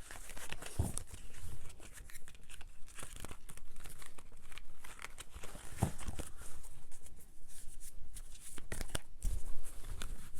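Tarot cards being handled and shuffled: papery rustling with many small clicks and flicks.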